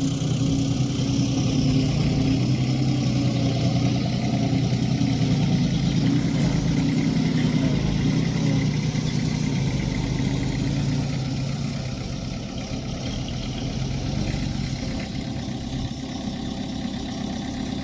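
Heavy-equipment diesel engine running steadily with a low hum. Its tone eases off somewhat about twelve seconds in.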